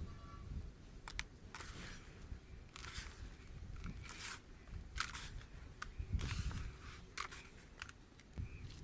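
Dry, crumbly dust or dirt clumps being crumbled, giving a series of short crunchy crackles about once a second, with a few sharp clicks, over a low rumble.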